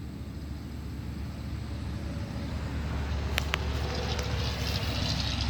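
A car going by, its road noise slowly growing louder, over a steady low rumble; two sharp clicks about three and a half seconds in.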